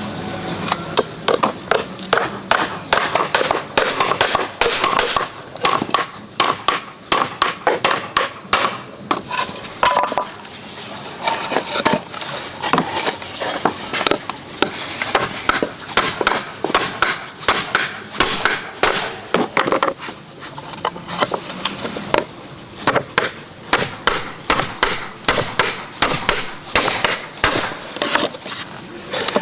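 Hand woodworking on wood: a long, busy run of sharp knocks and scraping strokes, several a second, irregular and on-and-off.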